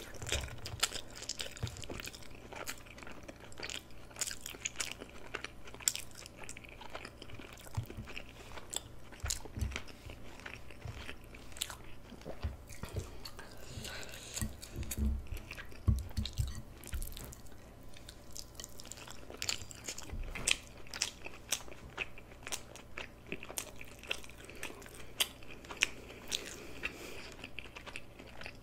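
Close-miked chewing of a meal of fish, fries, bok choy and rice: crunchy bites and wet mouth clicks going on steadily, with a few dull bumps around the middle.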